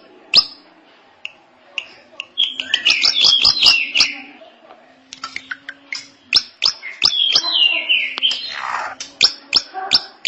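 Drongo singing a fast, varied song of sharp clicking notes and falling whistles, in several bursts with a short pause near the start.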